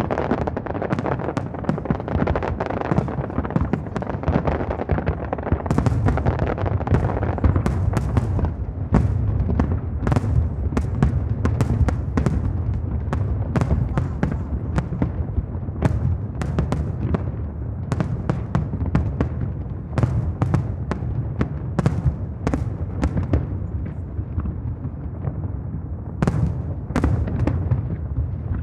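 Fireworks display: a dense, continuous barrage of shell bursts, sharp cracks several a second over a steady low rumble.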